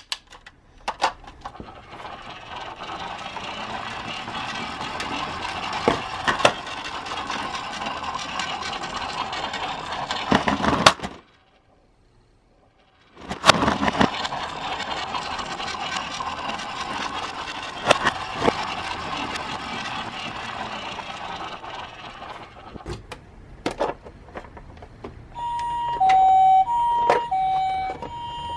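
Miniature toy cars running along a plastic track: a steady rattling whir with occasional sharp clicks, broken by about two seconds of silence midway. Near the end an electronic two-tone siren starts, switching between a high and a low note.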